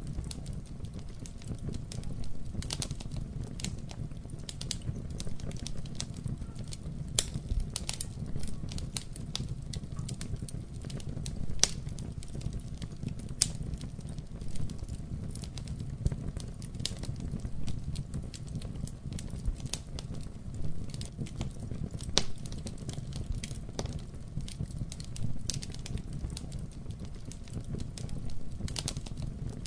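Wood fire burning in a fireplace: a steady low rumble of the flames with irregular crackles and sharp pops, a few louder snaps among them.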